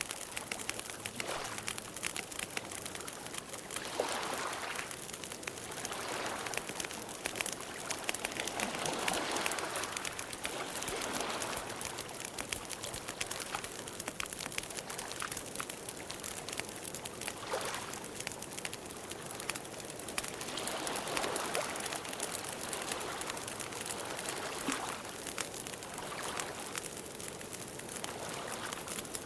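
Campfire burning: dense, irregular crackling and small pops over a steady hiss that swells every few seconds.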